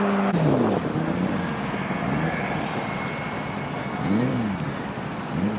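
Superbike engines: a high-revving engine passes and its note drops away sharply about a third of a second in, then short throttle blips rise and fall in pitch, one about four seconds in and another near the end, over steady traffic noise.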